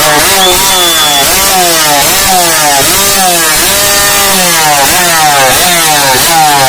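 Yamaha RX100's two-stroke single-cylinder engine on a race exhaust, revved hard in quick blips, the pitch climbing and dropping back about twice a second, with one slightly longer pull near the middle.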